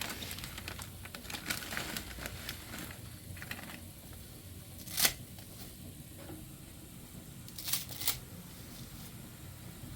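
Scattered sharp clicks and taps over a low steady background: one loud click about halfway through and two more close together a few seconds later.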